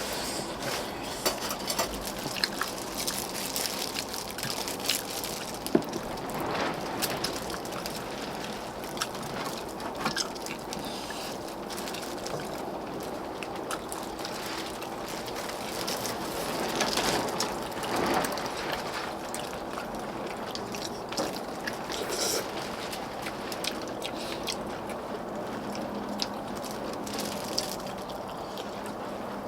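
Eating sounds of a meal of gamjatang (pork-bone soup): scattered clicks of spoons and chopsticks against bowls and slurps of broth over a steady hiss.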